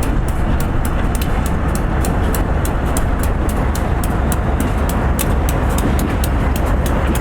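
Diesel freight locomotives, a GE B39-8E with two EMD GP38s, running as the train rolls slowly into the yard: a steady low rumble with a quick, even ticking over it.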